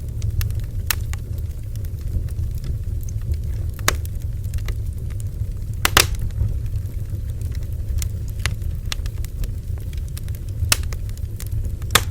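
Bonfire burning: scattered sharp crackles and pops from the burning wood, the loudest about six seconds in, over a steady low rumble.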